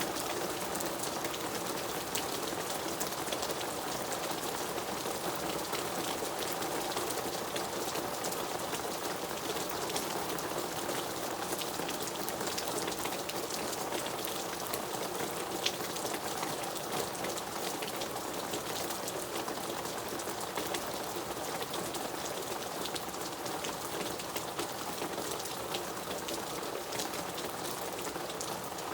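Steady rain falling, a continuous hiss dotted with the ticks of individual drops, with one sharper drop tick about halfway through.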